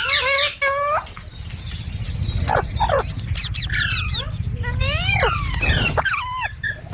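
Ringneck parrots (rose-ringed parakeets) calling: a quick run of chattering notes, then sharp squawks that slide downward, and warbling calls that rise and fall. A low steady hum runs underneath from about a second in until just before the end.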